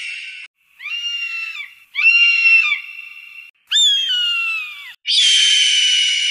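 An animal giving a series of high-pitched calls: three short, piercing cries that drop in pitch at their ends, set between two longer, harsh screeches at the start and near the end.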